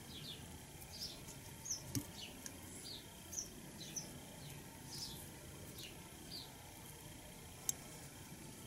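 Faint, scattered bird chirps: short, high, falling notes every half second to a second. A light click comes about two seconds in and a sharper one near the end.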